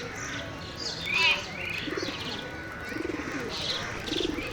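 Parrots chattering in many short, high chirps and squawks, mixed with a few low cooing calls.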